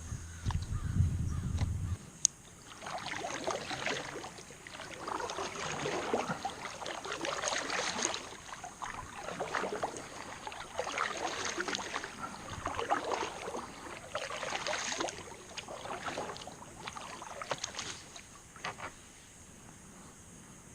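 Kayak paddle strokes dipping and pulling through creek water: a run of rhythmic swishing splashes, about one a second, that eases off and fades near the end.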